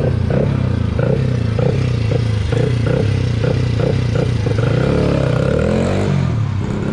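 A motor vehicle engine running steadily, its pitch wavering, with a repeating pulse and a brief change in pitch about five seconds in.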